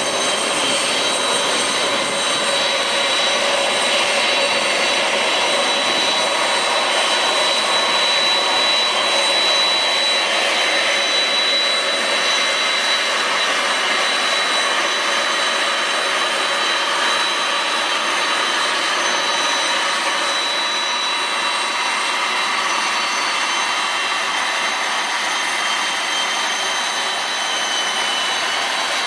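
Boeing 747-400 freighter's four turbofan engines running steadily: a loud rushing noise topped by a high-pitched whine.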